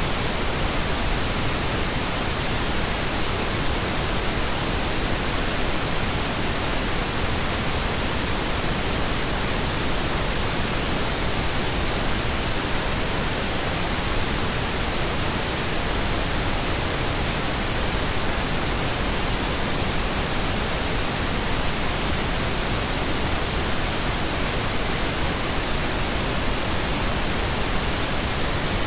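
Steady synthetic pink noise: an even, unchanging hiss across the whole range, with no events.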